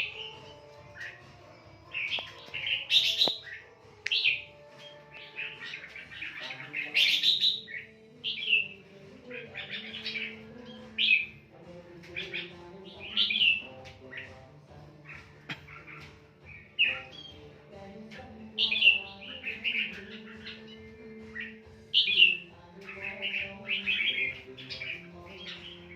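A caged songbird chirping and singing in short, repeated phrases every second or two.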